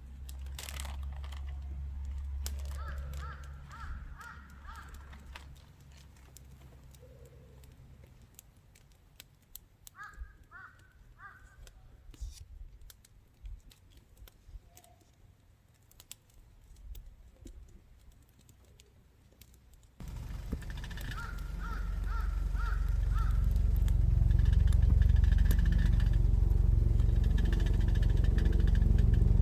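Outdoor ambience with short bird calls and scattered small ticks and crackles over a low rumble. About two-thirds in, a loud, steady, low engine-like rumble with a hum starts abruptly and keeps going.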